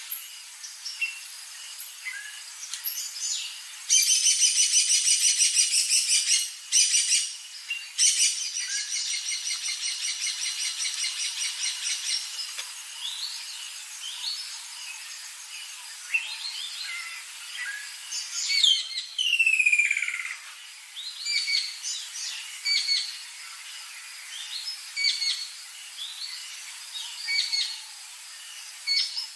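Several wild birds calling and singing: scattered chirps, a long fast pulsing trill that comes twice in the first half, and a pair of falling whistles past the middle.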